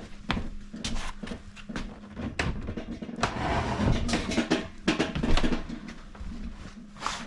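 Wooden kitchen cabinet being handled and shifted into place: a run of irregular knocks and clatters, with a stretch of scraping about three seconds in.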